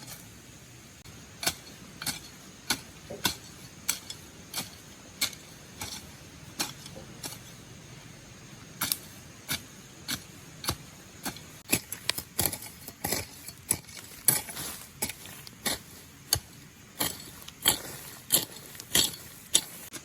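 A series of sharp clicks or knocks, about one every half second to a second at first, then coming faster and louder in the second half.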